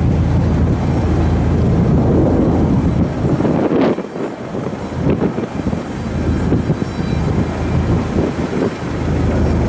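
A Southwest Airlines Boeing 737's jet engines running at high power as it departs, a steady engine noise with no break.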